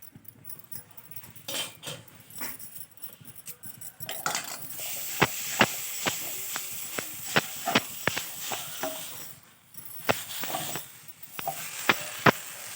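Metal spoon stirring and scraping in a pan of onion, grated coconut, ginger and coriander leaves being roasted for a masala, with a light sizzle. A few clicks at first, then frequent sharp clinks from about four seconds in.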